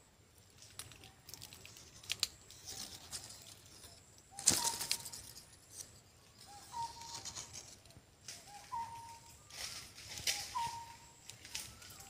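A bird gives short single call notes, one every second or two, over bursts of rustling. The loudest rustle comes about four and a half seconds in.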